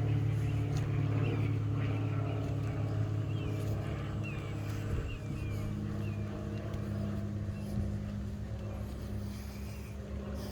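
A steady engine drone, a motor running at an even pitch that eases slightly in level, with a few short high bird chirps over it.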